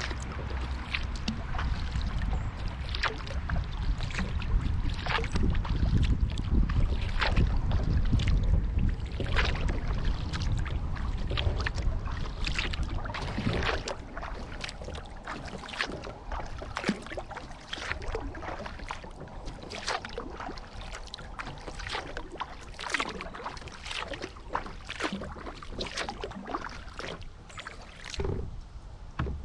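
Kayak paddle blades dipping into river water stroke after stroke, with irregular splashes and drips. A low rumble underlies the first twelve seconds or so.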